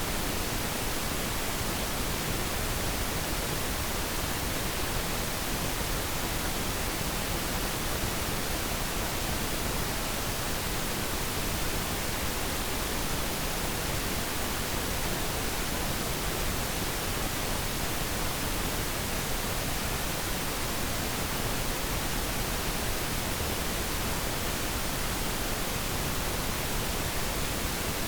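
Steady, unchanging pink noise: an even hiss across all pitches, with less treble than white noise.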